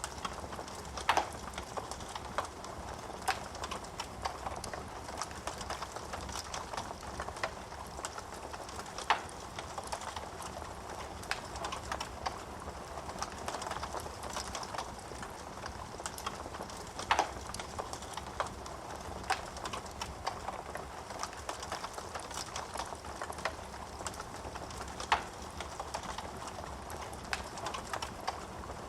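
Wood fire burning in a fireplace, crackling steadily with irregular sharp pops from the burning logs, a few of them louder, over a low steady hiss and hum.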